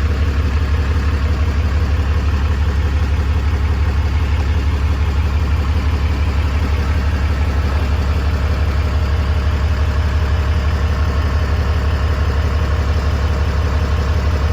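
Ram 3500's 6.7-litre Cummins turbo-diesel idling steadily, a low even rumble, while it is checked for fuel leaks after both fuel filters were replaced.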